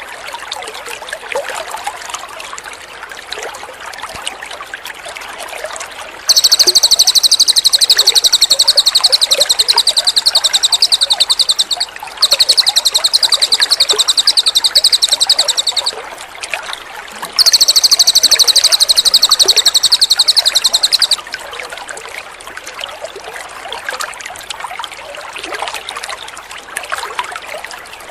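A cililin songbird singing three long bouts of very rapid, high-pitched trilling, the first about six seconds in and lasting about six seconds, the next two about four seconds each, over a steady trickle of running water. The trills are the loudest sound.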